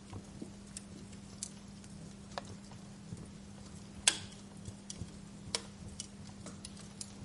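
Wood fire crackling in a fireplace: irregular snaps and pops, the loudest one sharp snap about four seconds in, over a low steady hum.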